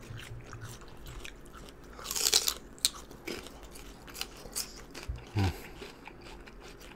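Close-miked chewing and crunching of food, with wet mouth clicks and a louder hissing burst about two seconds in.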